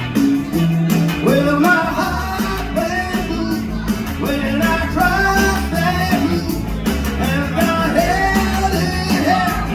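Live rock band playing a song: sung vocals over guitar, bass and drums with a steady beat.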